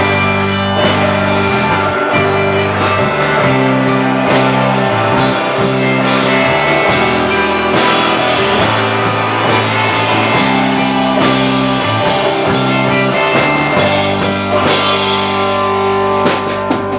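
Rock band playing live without vocals: electric guitars holding chords over bass and a drum kit keeping a steady beat. Cymbals swell about fifteen seconds in, and the music breaks off near the end.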